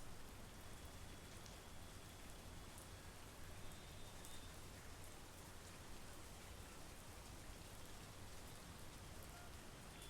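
Steady monsoon rain falling, faint, with a few scattered drop ticks.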